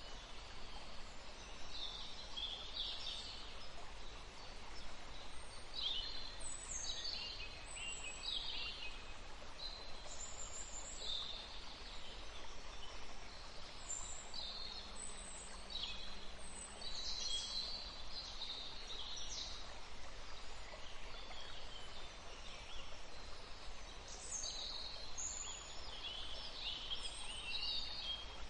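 Forest ambience: several songbirds chirping and singing in short, quick phrases throughout, over a faint steady background hiss.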